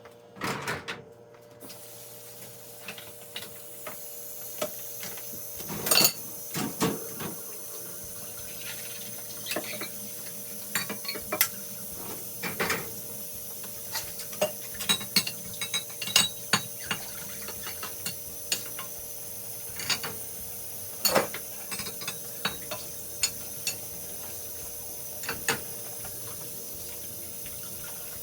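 Dishes and cutlery clinking and clattering again and again as they are handled and loaded into a dishwasher, over a steady hiss of running tap water.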